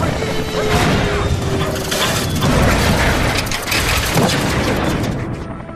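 Action-film sound effects of a missile strike on a helicopter: a dense run of booms, crashes and metal clanking, with a heavy low impact about two and a half seconds in, dying down near the end.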